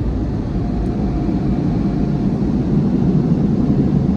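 Touch-free car wash air dryers blowing on the car, heard from inside the cabin as a steady, powerful rush of air. It gets a little louder about halfway through.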